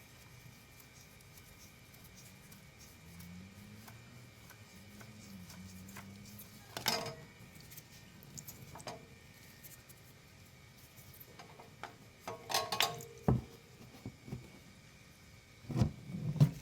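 Scattered metallic clanks and clicks of a wrench and oil filter being worked loose under a Suzuki Bandit 650 motorcycle engine, a handful of sharp knocks over a faint steady hum.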